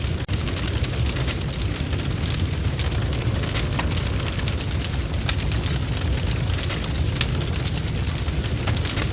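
Wood fire crackling, with many quick sharp pops and snaps over a steady low rumble of the flames.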